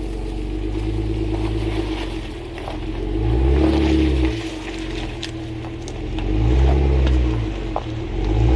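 Vehicle engine running steadily, then revving up and falling back twice, with scattered light clicks and crackles over it.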